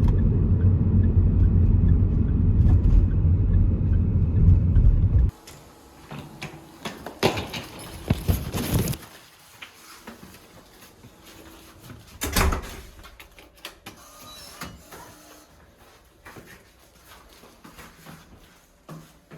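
Car cabin road noise, a steady low rumble of driving, cutting off suddenly about five seconds in. Then quieter scattered knocks and rustling, with a louder clatter a couple of times.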